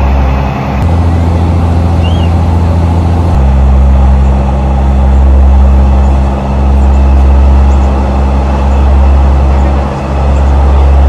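Train's diesel engine running with a loud, steady low drone, its pitch stepping up about a second in and down again about three and a half seconds in.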